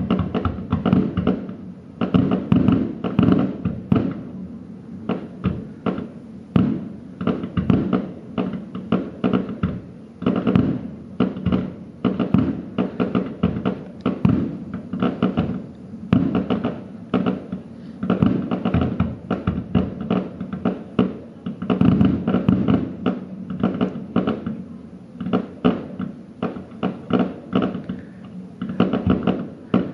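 Fireworks display: aerial shells bursting and crackling in rapid, overlapping succession, several booms a second with no pause.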